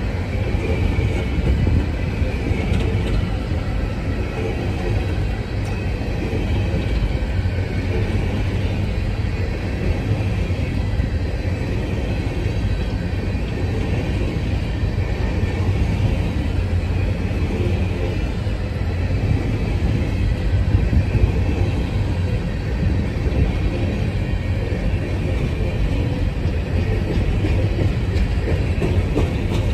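Coal train's bathtub gondola cars rolling past close by: a steady rumble of steel wheels on rail, with a faint high wavering whine above it.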